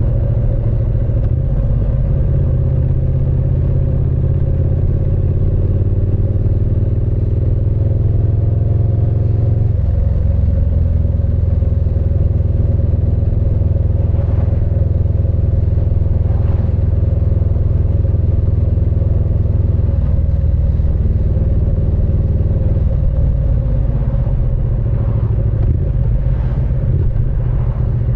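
Triumph Speed Twin 900's parallel-twin engine and exhaust running under way. The pitch climbs slowly, changes abruptly about a third of the way in, holds steady for about ten seconds, shifts twice more, then climbs again near the end.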